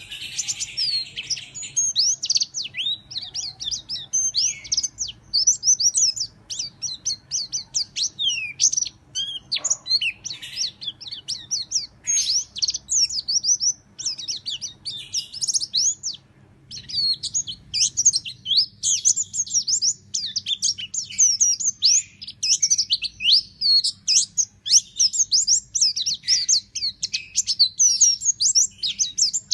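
White-eye (pleci) singing a long, fast run of high chirps and sweeping notes with only brief pauses, in the rapid 'nembak' (shooting) style that keepers train for.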